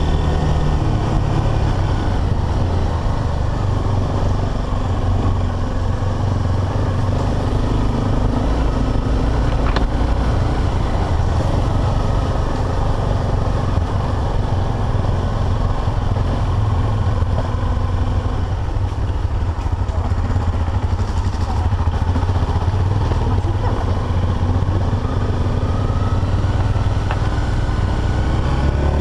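Single-cylinder dual-sport motorcycle engine running at steady, moderate revs, heard on board while riding a rough dirt trail.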